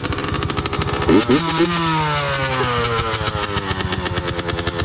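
Honda CR two-stroke dirt bike engine running after a kick start, revved sharply about a second in with the revs then falling back toward idle.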